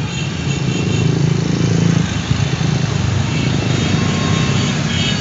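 Many motorcycle engines running as a stream of motorcycles rides past, a steady dense rumble that swells slightly about a second or two in.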